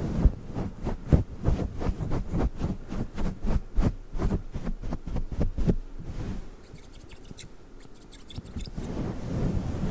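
Scissors and a fluffy microphone windscreen worked right against the microphone for ASMR. A quick run of soft strokes and snips, about three or four a second, gives way about six seconds in to quieter, lighter clicking. A dull rustling builds near the end.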